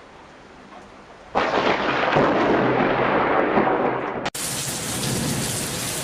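Thunderstorm: faint rain, then about a second and a half in a sudden loud clap of thunder that rumbles on for about three seconds. It breaks off abruptly a little after four seconds into steady rain.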